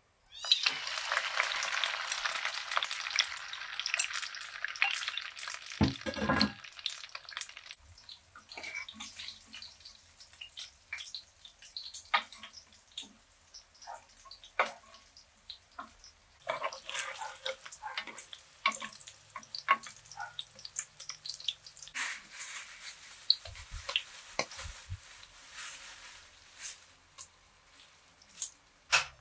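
Food sizzling in a hot pan, loudest for the first few seconds and then fainter, with scattered clicks and knocks of a utensil against the pan.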